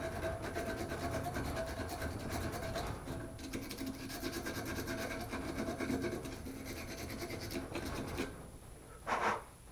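80-grit sandpaper wrapped around a screwdriver scrubbing rust off a metal tractor wrench: fast, continuous back-and-forth rubbing strokes that stop about eight seconds in.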